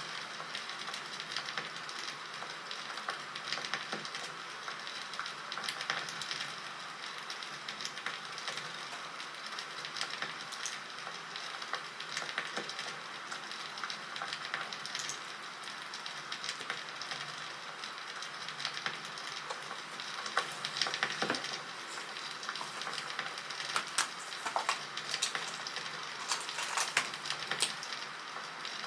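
Crackling wood fire: a steady hiss of burning wood with frequent sharp pops and snaps, coming more thickly in the last third.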